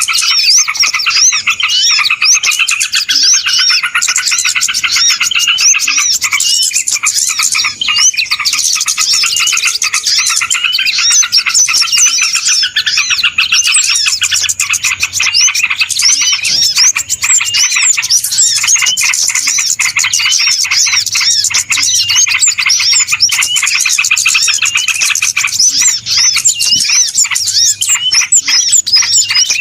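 A dense, noisy chorus of many small birds chirping and twittering at once, calls overlapping without pause: a bird-lure (pikat) recording meant to draw birds in.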